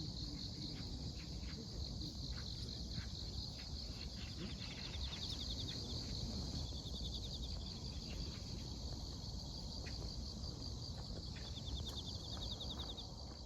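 Steady chorus of autumn grass insects shrilling high, with runs of fast pulsed trills in the middle and again near the end, over a low background hum.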